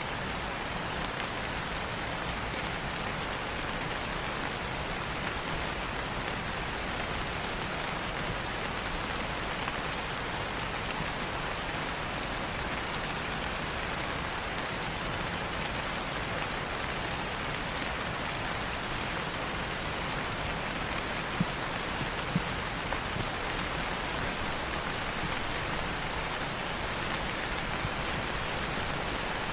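Steady rain falling on leaves, an even hiss with a few louder drops tapping close by near the end.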